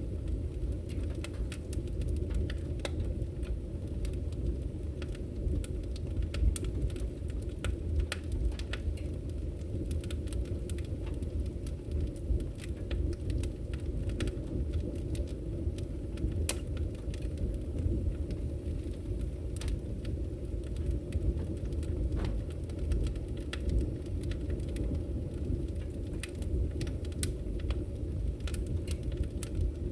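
Wood fire burning in a fireplace: a steady low rumble of the flames with many irregular sharp crackles and pops from the burning logs.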